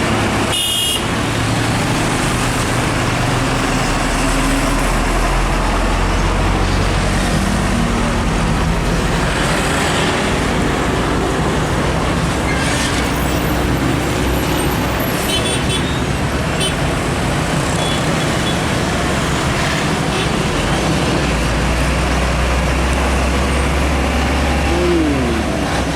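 Heavy diesel trucks passing on a road, engines running low under a steady rush of tyre and traffic noise.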